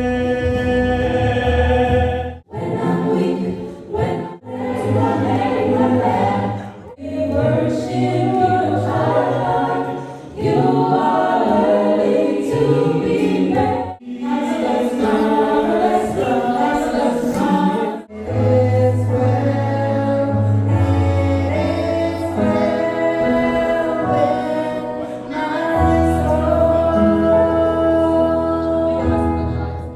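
Gospel choir singing in harmony over a steady low bass accompaniment, with a few abrupt breaks where the sound cuts off for a moment.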